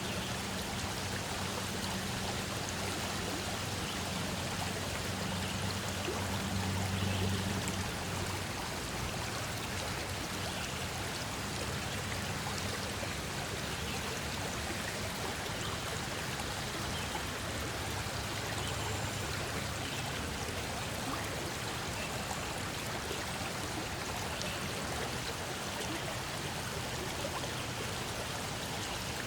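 Steady rush of flowing water, with a low rumble underneath that is stronger for the first eight seconds or so.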